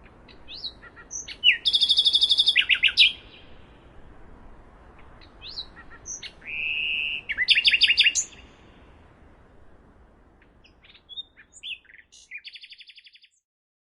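Nightingale singing in three phrases of rapid repeated notes, short whistles and fast trills, over a faint low background hum. The song stops about thirteen seconds in.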